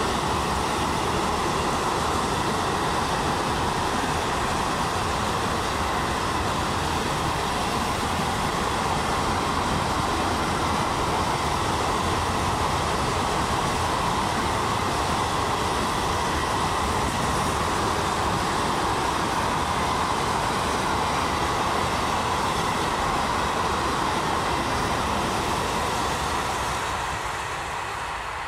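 A train running past: a steady rush of wheels on rails that fades away near the end.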